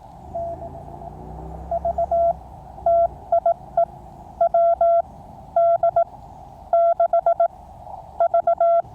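Morse code tone from a QCX mini QRP transceiver, keyed in short dits and longer dahs over the receiver's steady band hiss. A station is sending its call sign. A faint low rumble sits under the first few seconds.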